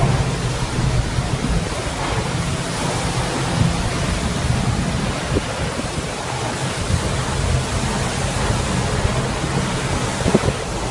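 Typhoon wind blowing hard: a loud, steady rush with a low rumble of wind on the microphone.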